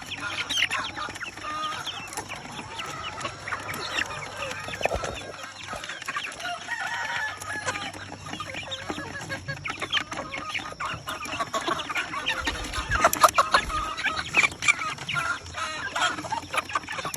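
A yard of gamefowl chickens clucking and calling, with many overlapping short calls and at least one rooster crowing.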